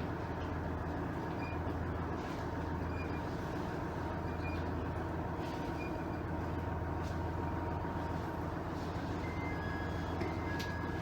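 Cabin sound of a JR East KiHa 110-series diesel railcar's Cummins DMF14HZ engine running steadily at idle while the car stands at a station. Faint short high beeps repeat about every second and a half.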